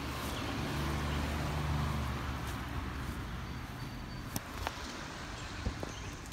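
A motor vehicle passing, its engine hum growing louder over the first two seconds and then fading, with a couple of sharp clicks a little after the middle.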